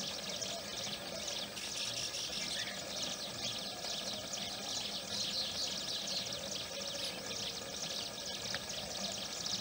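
Baya weaver colony chattering: a dense, steady chorus of high-pitched chirping from many birds around their hanging nests.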